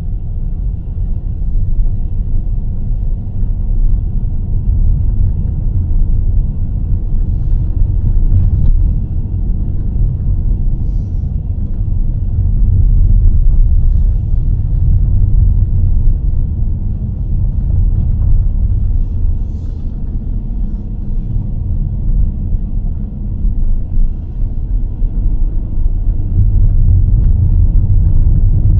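Car driving along a road: steady low rumble of tyres, engine and wind, with a few faint clicks along the way.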